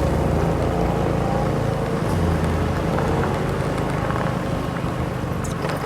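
BMW M3 engine running through an aftermarket Pure Flames exhaust, with a deep, fairly steady exhaust note that shifts slightly about two seconds in.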